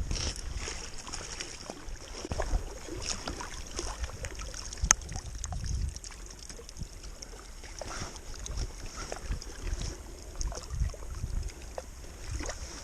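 Wind gusting on the microphone with water lapping at a kayak, and scattered knocks and clicks on the boat, one sharp click about five seconds in.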